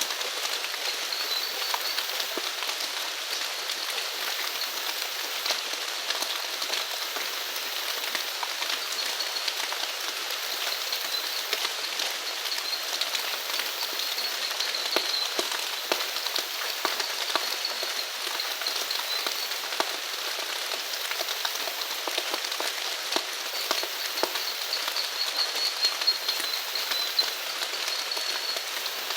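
Steady rain falling, with many individual drops ticking sharply close by. A faint, high, wavering trill runs in the background.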